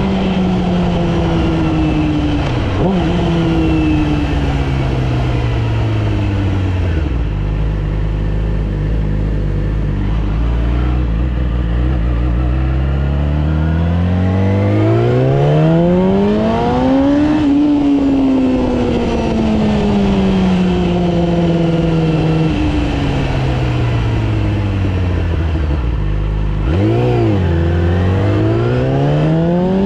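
Yamaha R6's inline-four engine under way: the pitch drops over several seconds and settles low, then climbs in a long pull about halfway through, falls away again, and near the end gives a quick blip before rising once more.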